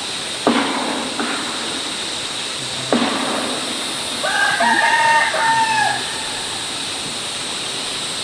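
A rooster crows once, about four seconds in, over a steady rush of running water. Two short, sudden noises come before it.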